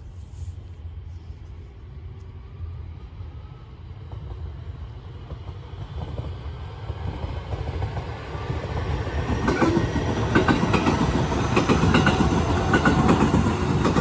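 Electric commuter train approaching and passing. Its rumble builds over the first half and is loudest in the last few seconds, with the clickety-clack of the wheels over the rail joints.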